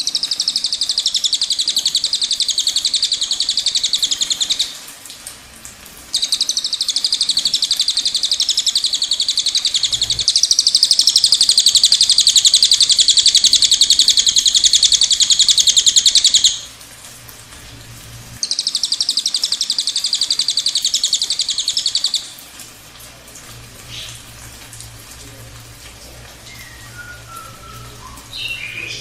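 Cililin songbird singing its long rolling trill: three extended, very rapid high-pitched trills, the middle one about ten seconds long, then only faint scattered chirps for the last several seconds.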